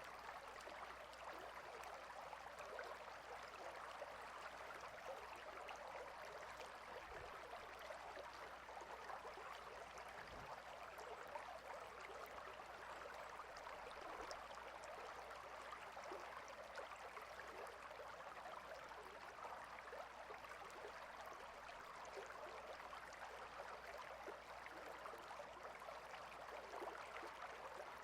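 Stream water flowing steadily, a faint, even babble.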